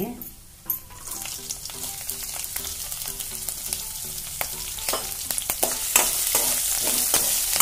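Chopped green chillies and peanuts sizzling in hot oil in a stainless-steel kadai, the sizzle growing louder after the chillies go in. A metal spoon clinks and scrapes against the pan a few times as they are stirred near the end.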